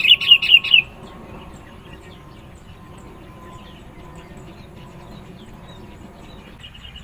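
Sooty-headed bulbul calling in a rapid burst of loud, chirping notes that breaks off about a second in. Faint scattered chirps follow, and a softer short run of notes comes near the end.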